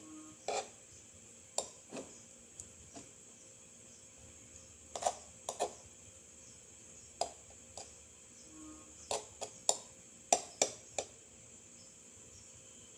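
A utensil tapping and clinking against a small dish while mixing a soft mash of quail egg yolk and rice: irregular sharp taps, a few clustered together, with pauses of a second or two between them.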